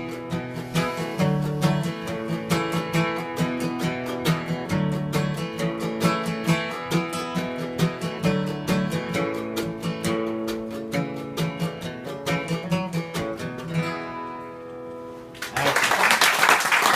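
Acoustic guitar picking the closing instrumental bars of a song, ending on a chord that rings out and fades. Near the end, loud applause breaks out.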